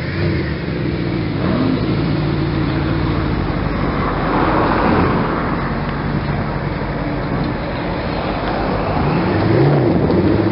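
Mercedes-Benz SLS AMG Roadster's 6.2-litre V8 running as the car pulls away at low speed, its exhaust note rising in pitch near the end as it accelerates.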